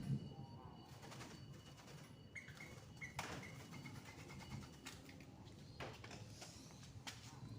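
Faint, low cooing of a puter dove (domestic ringneck dove), with a brief higher chirp and a few soft knocks.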